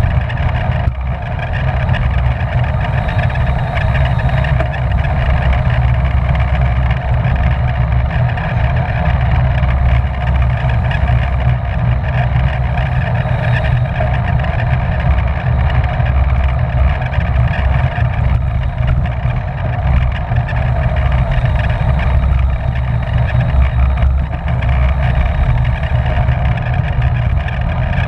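Wind rumbling steadily on the microphone of a camera mounted on a racing bicycle riding at speed in a pack, with a steady hum from the tyres and drivetrain underneath.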